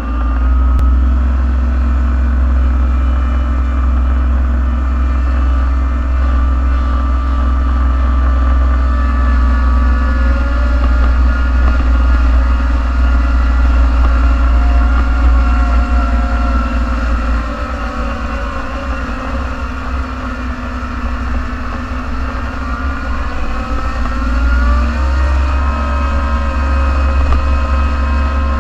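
Engine of a snow-plowing vehicle running, heard from inside its cab as a loud, steady low rumble, its pitch wavering up and down as the engine speed changes, and a little quieter for a few seconds past the middle.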